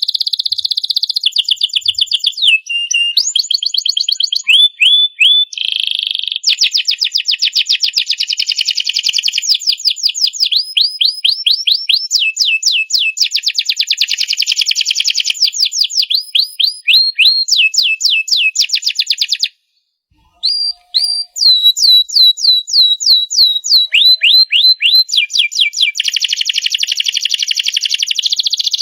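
Domestic canary singing a long song of fast trills and rolls, with rapid runs of downward-sliding notes. The song breaks off briefly about two-thirds through, then carries on.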